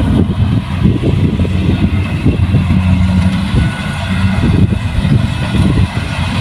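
Kubota rice combine harvester's engine running steadily under load, a continuous low hum with machinery noise on top.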